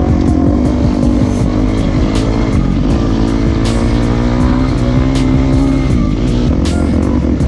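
Dirt bike engine running and revving, its pitch rising and falling, mixed with background music that has a regular beat.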